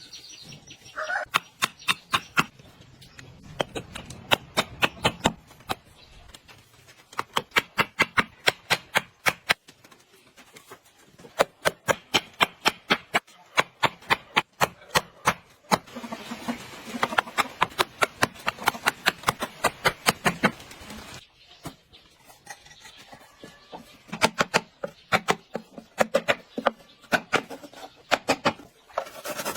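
Rapid sharp taps or knocks, about four to five a second, in runs broken by short pauses, typical of a hand tool working at something.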